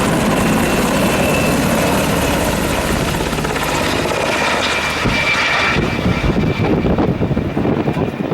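Firefighting aircraft overhead, its engines running loud and steady, becoming choppier and more uneven about five seconds in.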